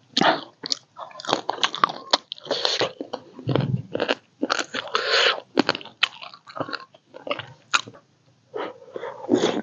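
A person eating: biting and chewing food with crunching, in irregular short bursts of mouth noise.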